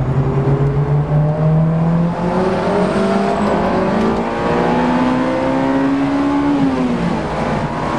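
Honda S2000's four-cylinder engine heard from inside the cabin under acceleration on track, its note climbing steadily for several seconds, then dropping sharply about seven seconds in.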